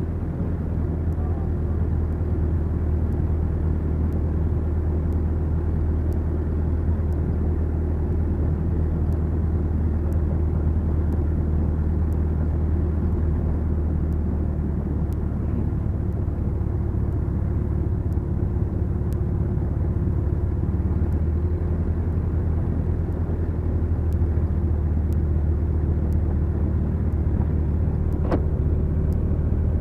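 Twin piston engines of a Beechcraft Duchess droning steadily in the cockpit, a low even hum that holds one pitch throughout. A single faint click near the end.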